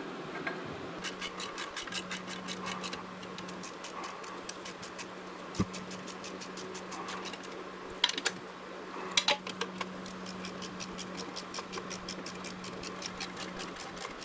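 Hand ratchet clicking in a steady rapid run, about four clicks a second, with a few louder metal knocks from the tools on the engine, over a steady low hum.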